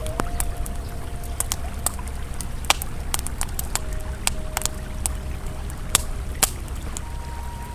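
Campfire crackling, with irregular sharp pops and snaps, over the steady low rush of a flowing river.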